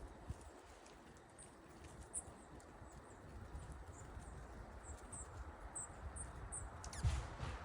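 Small wild birds calling faintly: a string of short, very high chirps, then a louder cluster of quick sweeping calls together with a low thump near the end.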